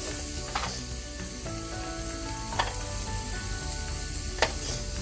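Ground-beef burger patties sizzling steadily as they fry in a pan, with three sharp pops spaced about two seconds apart.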